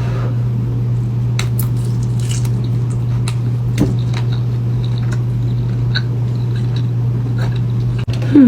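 Close-miked eating: quiet chewing with scattered small clicks and ticks, over a steady low hum.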